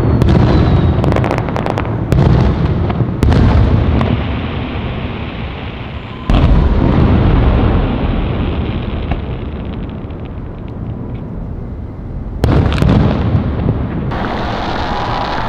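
Fireworks exploding: a series of heavy booms, each trailing off in a long rumble, with a flurry of crackling pops in the first two seconds. Fresh booms go off at the start, about two and three seconds in, about six seconds in, and again near the end.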